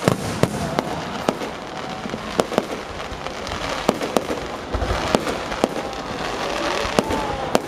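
Fireworks display: a steady crackle of bursts with sharp bangs going off irregularly, several a second at times.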